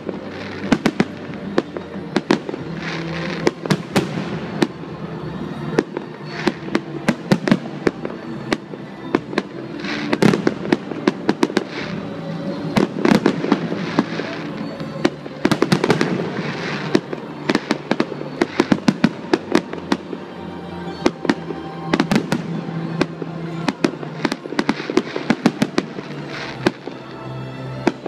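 Aerial firework shells bursting in a long, irregular string of sharp bangs, several a second at times and coming in denser flurries now and then.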